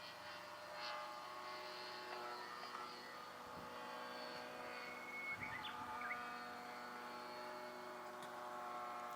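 Radio-controlled F3A aerobatic model airplane in flight, its motor and propeller giving a steady, even tone.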